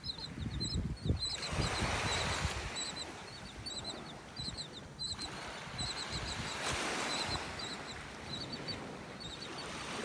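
Birds giving quick, high chirps in short clusters over and over, over the wash of small surf that swells and fades every few seconds.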